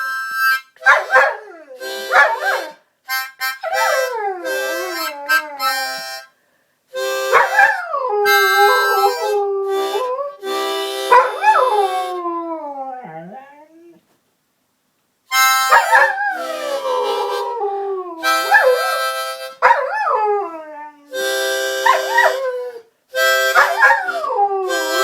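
A harmonica played in short held chords while a collie howls along, with long falling howls and yips over the chords. The playing and howling stop briefly twice.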